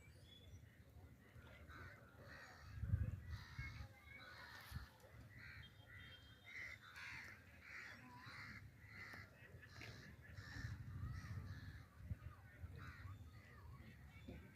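Crows cawing repeatedly, many short calls one after another, over a faint low rumble that swells briefly about three seconds in.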